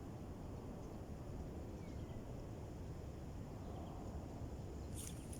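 Strong wind buffeting the microphone, a steady low rumble, with a few sharp clicks and rustles near the end.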